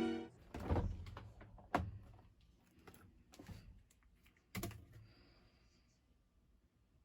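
A few light clicks and knocks, spaced a second or so apart, as of small objects being handled in a quiet room.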